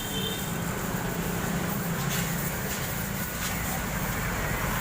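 Road traffic noise with a vehicle engine running close by, a steady low hum over a constant wash of noise.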